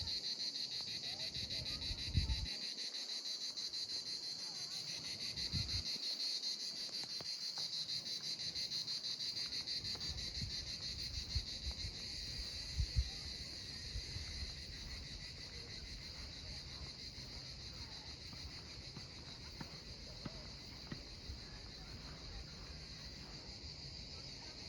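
Insects chirring: a steady, high-pitched, fast-pulsing drone, with scattered low thumps underneath.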